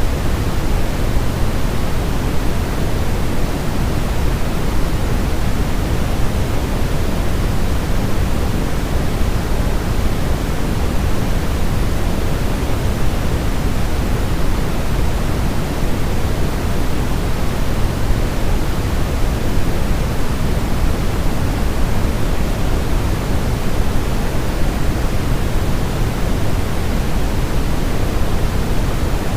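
Steady generated white noise for a baby's sleep, weighted toward the low end like pink noise. It is a constant rushing hiss that does not change.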